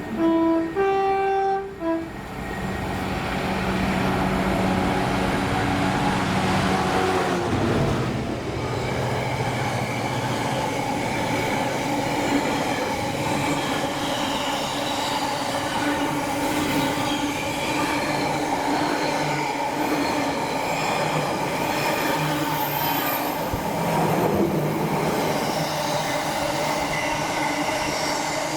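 Train sounding a two-tone horn near the start, a lower note then a higher one, about two seconds in all, then running through the station with steady, continuous train noise.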